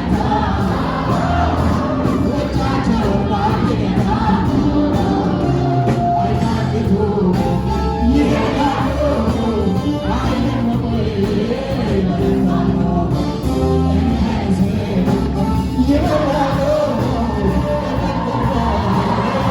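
Ethiopian gospel song (mezmur) with a voice singing over steady band accompaniment.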